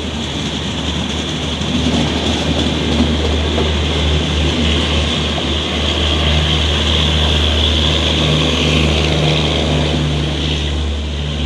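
Mumbai suburban local electric train running: a loud, steady low rumble with a hiss over it.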